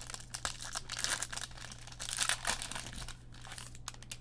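A trading card pack's foil wrapper being torn open and crinkled, with a dense crackle for about three seconds, then a few lighter clicks.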